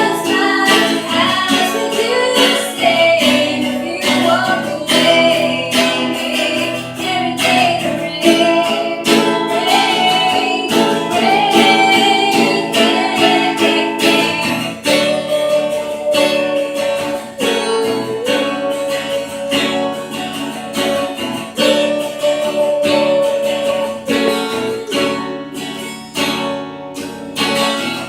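Acoustic guitar strumming chords under a sung melody with long held notes, a cover of a pop ballad.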